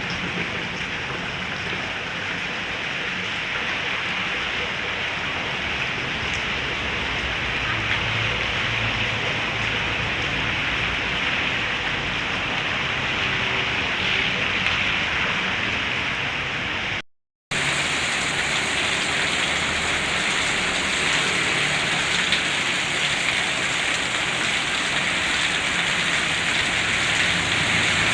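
Heavy rain falling steadily in a dense, even hiss. The sound cuts out completely for about half a second about two-thirds of the way through.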